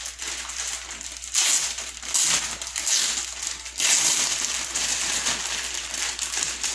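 Plastic wrapping crinkling and rustling as it is handled, in irregular surges that are loudest between about one and a half and four seconds in.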